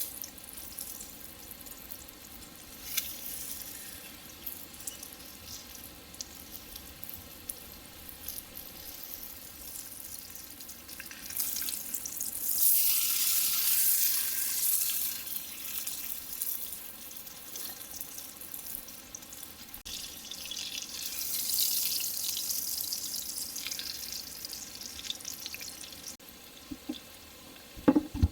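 Food sizzling in a hot pan, with small crackles throughout; the sizzle swells louder twice for several seconds at a time, about halfway through and again later.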